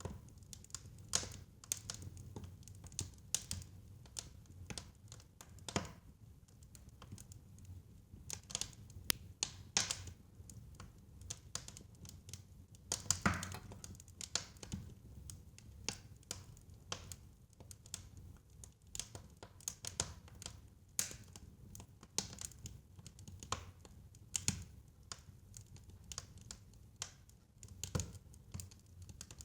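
Fire in a fireplace crackling, with irregular snaps and pops over a low steady hum; the loudest pop comes about thirteen seconds in.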